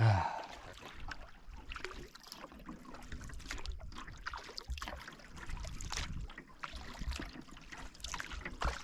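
Canoe paddle strokes in lake water: the blade dipping and pulling, with trickling drips off the paddle.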